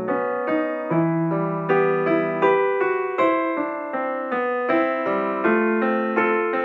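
Background piano music: a gentle melody of struck notes, several a second, over sustained bass notes.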